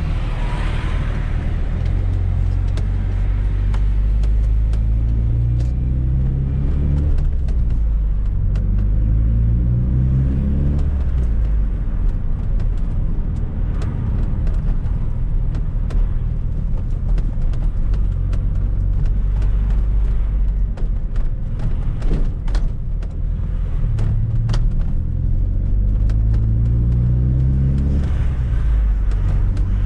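Fiat Coupe 16V Turbo's turbocharged four-cylinder engine under way, pulling up through the revs three times with a rising note over a steady road rumble. Some sharp clicks and knocks come in around the middle.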